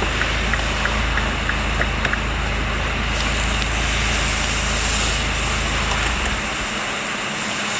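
MINI John Cooper Works R56's N14B16C 1.6-litre turbocharged four-cylinder running steadily, with faint regular ticking in the first couple of seconds. The low engine note drops away about six seconds in.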